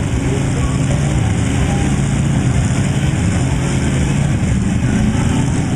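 Truck engines running with a steady, low-pitched note that holds at the same level throughout.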